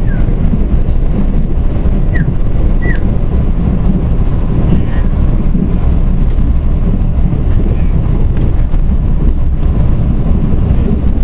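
Mugunghwa-ho passenger train running along the track, heard from inside the carriage: a loud, steady low rumble. A few short high squeaks come in the first three seconds.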